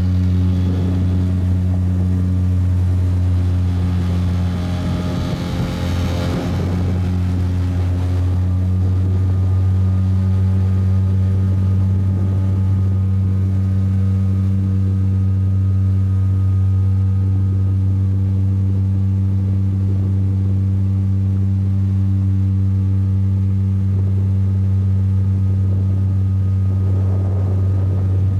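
Motorboat engine running at a steady speed, a constant low hum with even overtones. A brief rushing noise rises over it about five seconds in.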